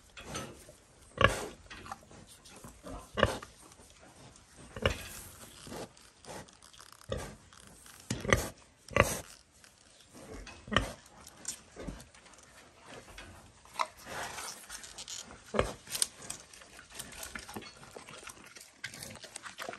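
An animal making short grunts at irregular intervals, about a dozen over the stretch.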